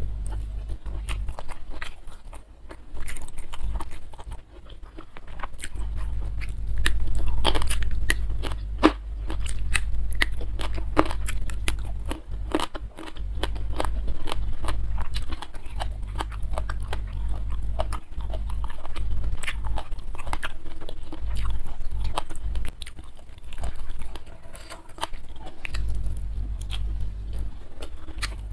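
Close-miked chewing of a mouthful of rice and boiled fish, with many short, wet mouth clicks and smacks coming and going. A steady low hum runs underneath.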